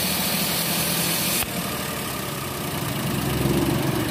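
Toyota Wigo's small three-cylinder petrol engine idling steadily, an engine that has logged an ignition-coil misfire code. A high hiss over it stops abruptly about a second and a half in, and the engine sound swells a little near the end.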